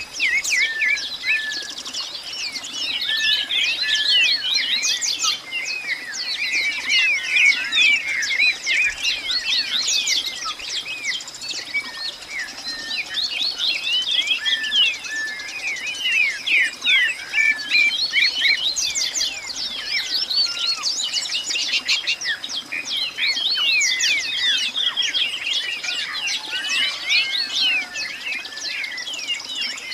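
Many birds chirping at once: a dense, unbroken chorus of short overlapping chirps and quick up-and-down notes.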